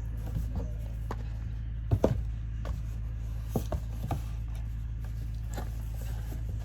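Close-up eating sounds: a person chewing, with scattered short mouth clicks and smacks, two louder ones about two seconds in, over a steady low hum.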